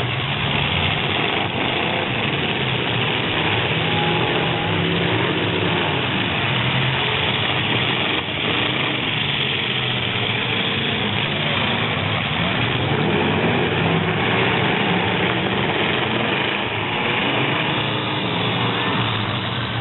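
Several truck engines running and revving steadily, with voices in the background.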